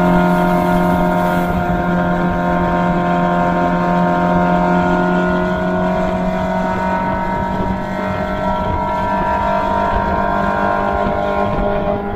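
Open-cockpit sports car's engine pulling steadily at fairly high revs as it climbs, heard from just behind the driver's seat, with its pitch nearly constant.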